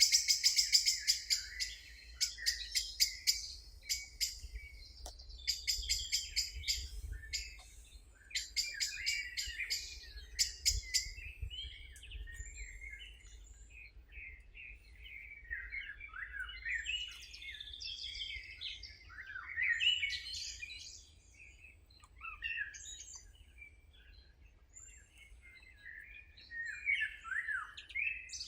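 Wild birds singing: for about the first twelve seconds, rapid rattling trills repeated phrase after phrase, then a run of varied, sliding warbles and chirps.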